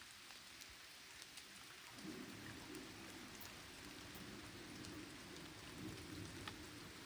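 Rain falling softly, with scattered drops ticking on nearby surfaces. About two seconds in, a faint steady low rumble joins underneath.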